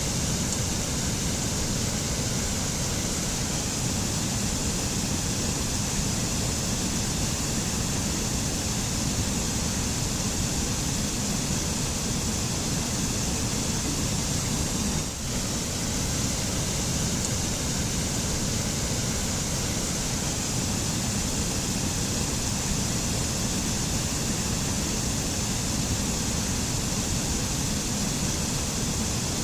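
Waterfall pouring steadily into a stream: a continuous rushing with a deep rumble underneath and a bright hiss on top, with a brief dip halfway through.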